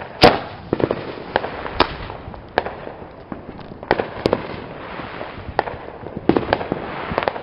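Fireworks going off: a run of sharp bangs at irregular intervals, sometimes several a second, the loudest about a quarter second in.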